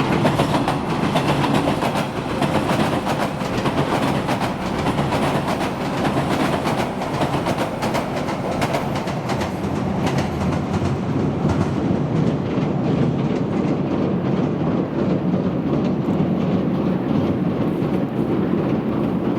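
Electric commuter train running over a railway bridge, its wheels clacking over the rail joints with a steady rumble; the sharp clicks are thick in the first half and the hiss thins out later on.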